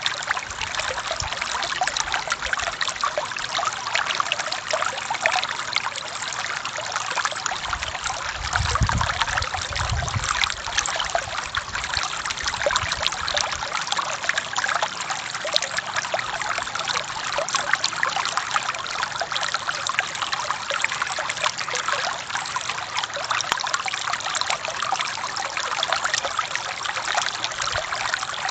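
Forest stream flowing steadily, a constant rushing hiss of moving water. A brief low rumble comes in about eight seconds in and fades about two seconds later.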